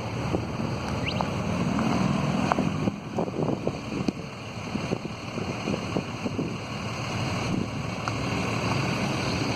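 Burning semi truck: a steady roar of the fire with many scattered crackles and sharp pops.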